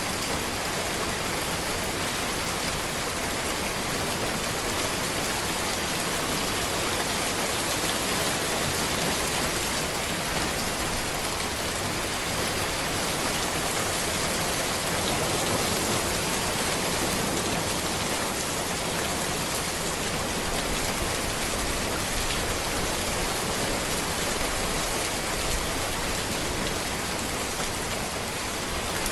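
Steady rain falling on a road surface, a dense, even hiss of drops.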